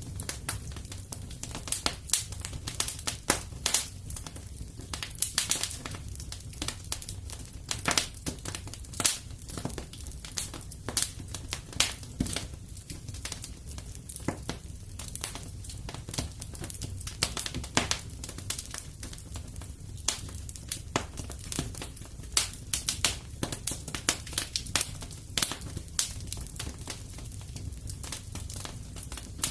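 Fire crackling in a fireplace: a steady run of irregular pops and snaps over a low, constant rumble.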